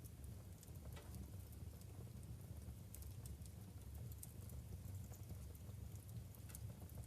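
Wood fire burning in a fireplace: a low steady rumble of the flames with scattered sharp crackles and pops from the logs, one louder pop about a second in and another near the end.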